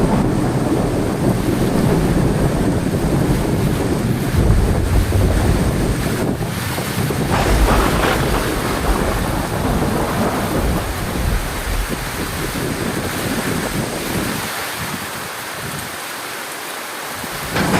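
Heavy, steady rain with thunder rumbling deeply through the first half, a couple of sharp crackles in the middle; the rumble fades out near the end, leaving the rain.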